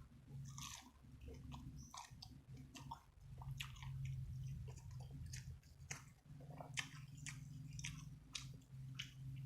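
Close-miked chewing and eating: irregular crisp crunches and wet mouth clicks from a person chewing a meal of rice, sambal and raw vegetables. A steady low hum runs underneath.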